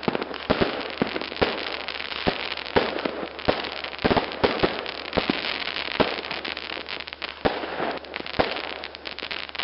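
Fireworks going off: an irregular run of sharp bangs, over a dense crackling that does not let up.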